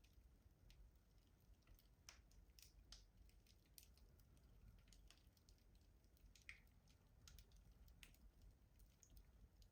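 Wood fire crackling in a traditional rustic stove: faint, irregular small pops and snaps, a few stronger ones spaced unevenly, over a low steady rumble.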